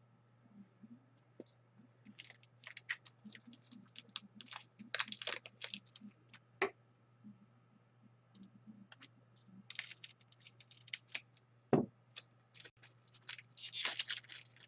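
Trading cards and their pack being handled on a table: a run of small scratchy clicks and slides, with one sharper click about twelve seconds in, over a faint steady low hum.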